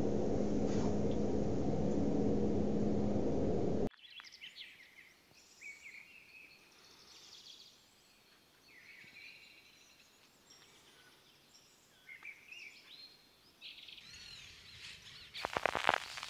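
A steady noisy hum with a low tone cuts off abruptly about four seconds in. Then faint birds chirp over quiet outdoor ambience. Music with a beat starts near the end.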